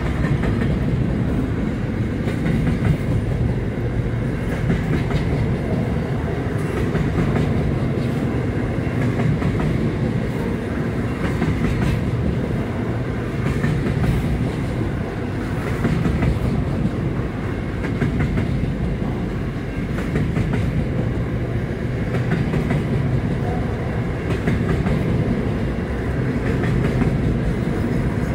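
Double-stacked freight train rolling past at a level crossing: a steady heavy rumble of wagons with the wheels clicking over the rail joints.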